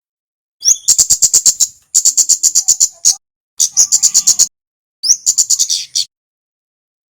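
Kemade (kemlade) songbird singing: four bursts of rapid, high chip notes, about eight a second, some opening with a short rising whistle.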